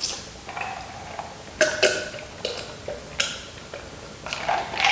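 Close-miked chewing of crispy fried chicken: a string of short, irregular crunches and wet mouth sounds.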